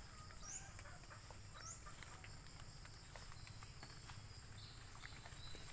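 Faint outdoor ambience: a bird gives short rising chirps about once a second, with a few light scattered clicks.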